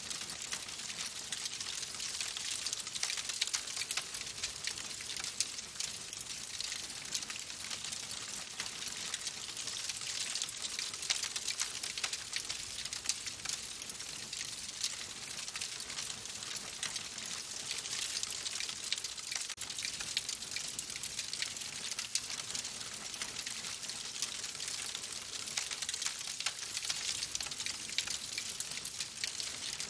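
Wood fire crackling in a fireplace: a steady hiss thick with small, rapid pops and snaps.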